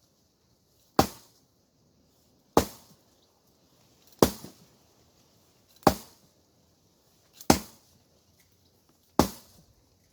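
Blunt axe chopping hard wood: six sharp strikes, one about every second and a half.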